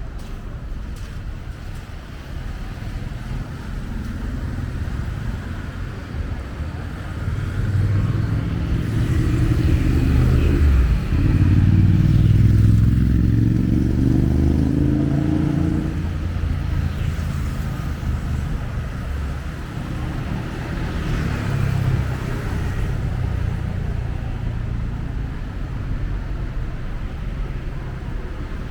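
Street traffic: a motor vehicle's engine approaches and passes close by, loudest about halfway through, then fades back into the steady traffic noise.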